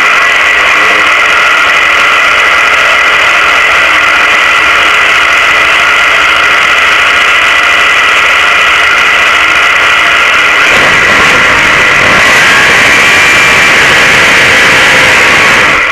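400-cubic-inch Chevrolet V8 of a drag car running steadily at idle, very loud as heard from inside the cockpit, with its low rumble getting heavier about eleven seconds in.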